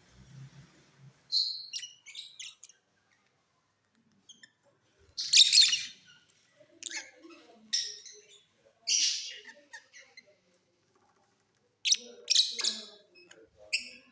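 Lovebirds chirping in short, high-pitched bursts separated by pauses. The loudest burst comes about five seconds in, and a quick cluster of calls follows near the end.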